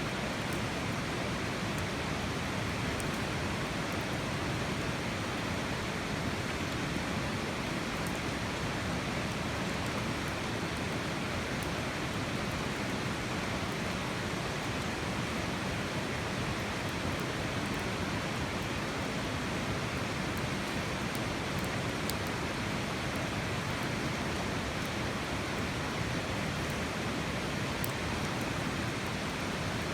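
Steady, even rushing noise with a few faint, scattered high ticks.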